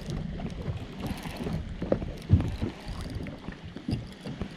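Irregular knocks and handling noise in a small fishing boat, with wind buffeting the microphone. A sharp knock a little over two seconds in is the loudest sound.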